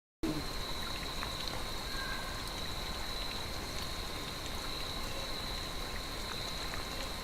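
Night-time woodland chorus of calling frogs: a steady high-pitched trill with a weaker, lower steady tone beneath it and scattered faint ticks, over a constant hiss. It cuts in suddenly just after the start.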